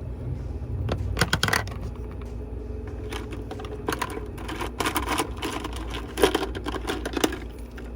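Small plastic makeup packaging, such as lipstick tubes, clicking and clattering as it is handled and set into an organizer. The clicks come in several bursts, with a low steady hum underneath.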